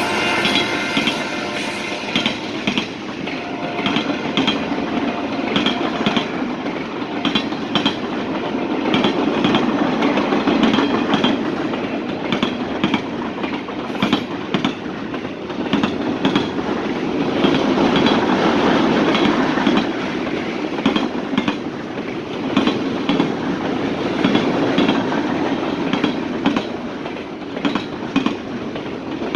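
Freight train rolling past, a steady rumble of the cars with a rapid, uneven run of clicks as the wheels cross rail joints.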